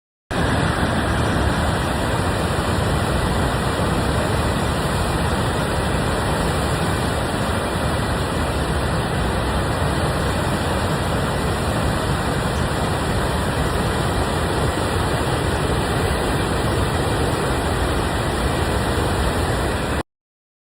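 Steady roar of rushing floodwater at Eagle Falls on the Skykomish River, running at moderate flood stage. It cuts in suddenly and cuts off suddenly near the end.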